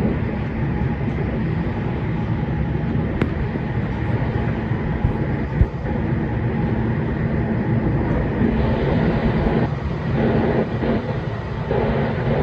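Running noise heard inside a JR West 227 series electric train: a steady rumble of wheels on rail with a faint hum, one sharp click about three seconds in and a brief knock a little over five seconds in.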